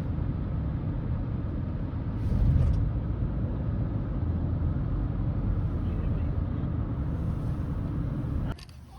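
A car driving, with a steady low road rumble that swells briefly about two and a half seconds in and cuts off suddenly near the end.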